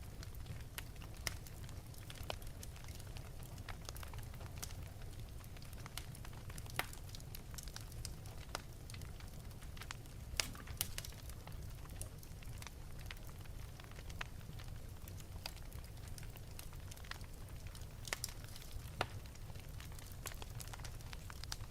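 Wood fire in an open fireplace crackling, with scattered sharp pops over a steady low rumble of the flames.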